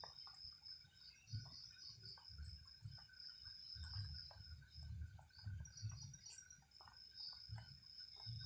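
Night insects, crickets among them, chirring steadily in a faint high pulsing drone, over irregular low rumbles.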